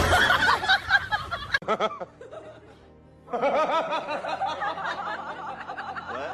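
A person laughing in quick repeated bursts, with music, after a loud noisy first second and a half and a brief lull.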